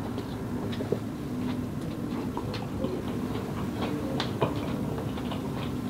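A person chewing a mouthful of burger close to the microphone, with small irregular mouth clicks, over a steady low hum.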